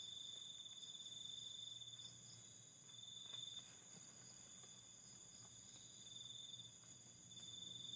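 Faint, steady chirring of crickets or other insects: several high trills hold continuously, and one drops out and returns a few times.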